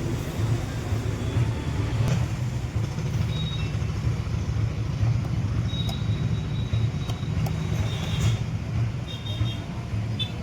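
Maruti Alto 800's three-cylinder petrol engine running steadily at idle, a low, even hum.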